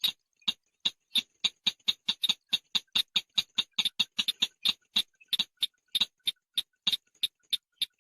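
Shrike (chàng nghịch) giving a rapid series of short, sharp chip notes, about five a second, repeated steadily.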